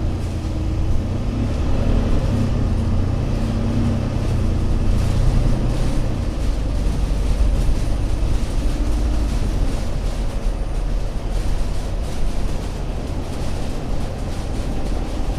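Alexander Dennis Enviro500 MMC Euro 6 double-decker bus engine running, its pitch shifting through the first few seconds and again about nine seconds in.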